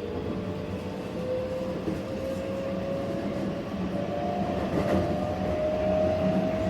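Keihan 10000 series electric train running, heard from inside the car: the Toyo IGBT VVVF inverter and traction motors give a whine that climbs slowly in pitch as the train gathers speed, over the rumble of wheels on rail.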